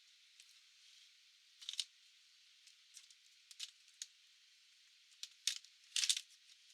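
Short clicks and scrapes of hands and small tools working on a Panasonic Toughbook CF-C2 laptop's casing and parts during disassembly. They come in a few scattered clusters, the loudest near the end.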